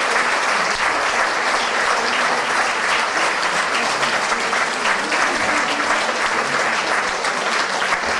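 Concert audience applauding steadily, dense clapping from many hands.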